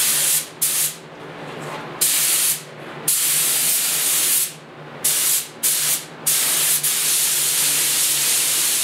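Automotive clear coat being sprayed onto a motorcycle fuel tank in a series of short hissing passes, ending in one longer pass of two to three seconds. A steady low hum runs underneath.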